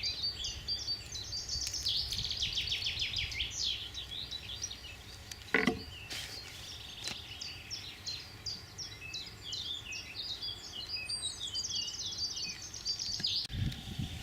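Several songbirds singing and chirping, with quick trills, over a low steady rumble. A single short thud about five and a half seconds in.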